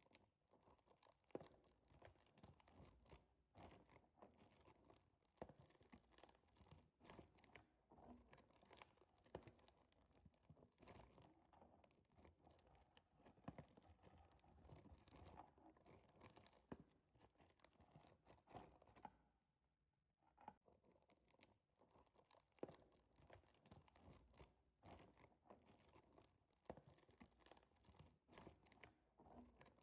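Faint, dense crackling and crunching from inside a miniature volcano model, picked up by a microphone in its mouth: irregular small clicks and scratches, with a brief lull about two-thirds of the way through.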